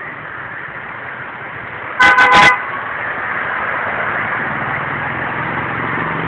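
A vehicle horn sounds three quick short toots about two seconds in, over a steady hiss of rain and road noise that grows slightly louder.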